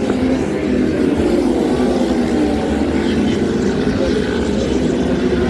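Several racing superbikes' engines running hard at race speed, their overlapping engine notes rising and falling as they ride through the circuit.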